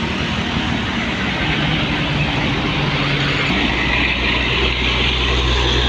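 Motor vehicle engines running as traffic passes close by on the road, with a deep, heavy engine drone growing stronger about three and a half seconds in.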